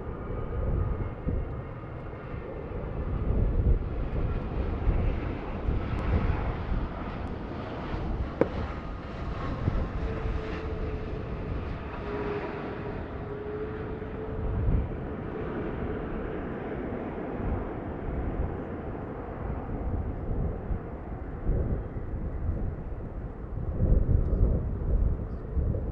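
Jet airliner's engines, a steady rushing drone with faint whining tones, heard across an open airfield. Strong gusts of wind buffet the microphone in repeated low surges.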